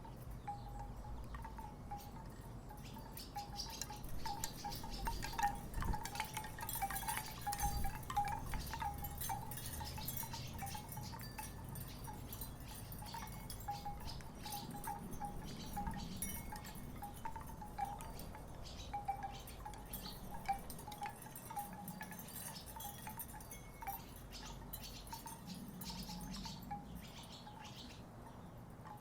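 Wooden tiki wind chimes knocking together irregularly: light hollow clacks, each with a short ringing tone. They are busiest in the first third, then settle to scattered knocks.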